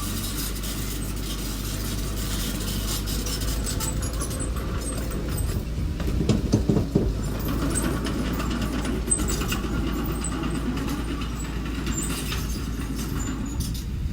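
Engine of a small construction machine running steadily, with a louder stretch of knocks and clatter about six to seven seconds in.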